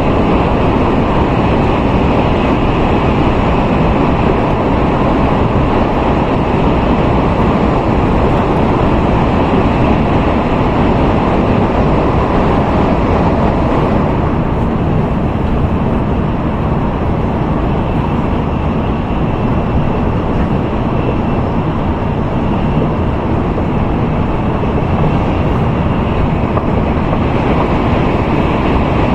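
Steady rushing rumble of an N700A Tokaido Shinkansen running at speed, heard from inside the passenger cabin; the sound thins slightly about halfway through.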